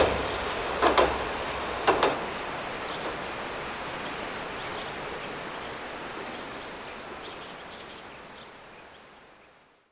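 Diesel railcar's wheels clacking over rail joints, paired clicks about once a second in the first two seconds, then the running sound fading away, with faint bird chirps.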